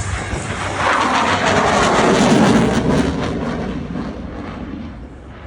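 Fighter jet's engine noise as it flies past, a loud rushing that builds about a second in, peaks around two to three seconds, then fades away as the jet recedes.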